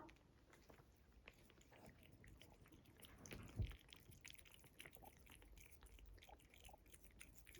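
A cat faintly crunching food, with many small irregular clicks, and a soft thump about three and a half seconds in.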